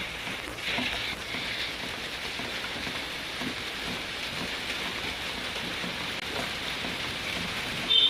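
Steady rain falling, an even hiss with scattered drops, and a brief high-pitched chirp near the end.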